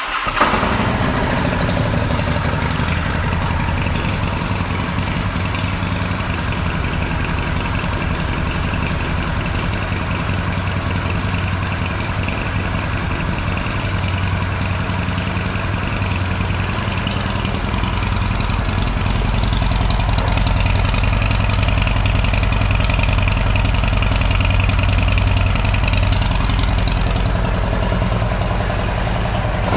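Harley-Davidson Super Glide Custom V-twin idling steadily through aftermarket Screamin' Eagle exhaust pipes, just after being started. The low exhaust note grows a little stronger about two-thirds of the way in.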